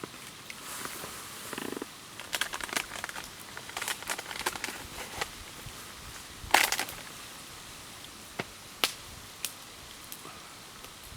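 Wood campfire crackling, with irregular sharp pops over a low steady hiss; the loudest pop comes about six and a half seconds in.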